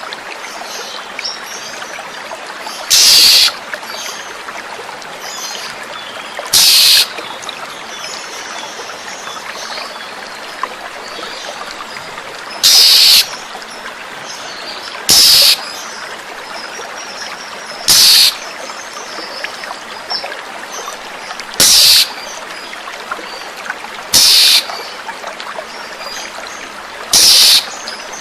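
Oriental magpie-robin giving eight loud rasping calls of about half a second each, a few seconds apart, with fainter chirps between them, over steadily running water.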